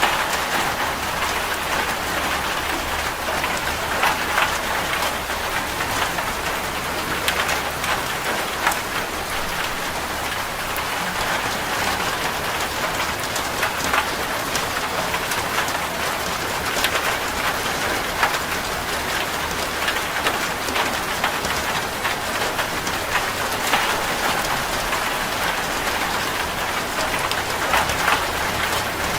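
Steady, heavy rain falling on a corrugated zinc roof: a dense, even hiss of water with many sharp ticks of individual drops striking the metal.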